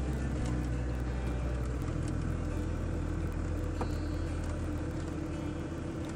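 Car driving on a rough dirt road, heard from inside the cabin: a steady low rumble of engine and tyres.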